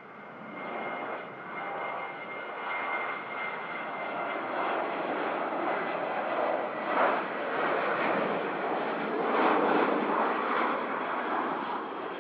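Airliner's engines passing close by at the airport, the noise swelling to a peak in the second half, with a thin high whine early on.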